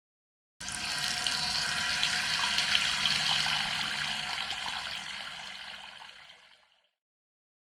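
Water running from a tap into a sink, a steady splashing hiss that starts abruptly and fades away near the end.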